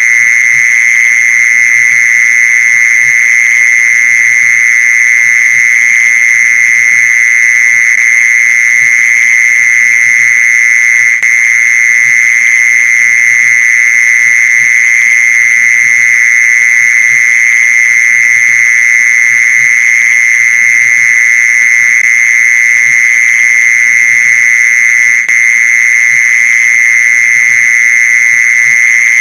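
Mole cricket calling: a loud, unbroken, even trill at one high pitch, with two very brief dips partway through.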